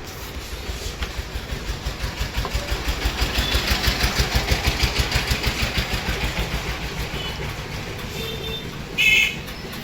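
Small petrol engine of a crop-spray machine running with a rhythmic low pulsing that builds up, holds for a few seconds and then eases off. A short, loud, high-pitched sound cuts in near the end.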